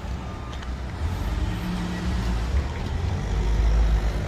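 Low, steady rumble of a motor vehicle, engine and road noise, growing louder toward the end.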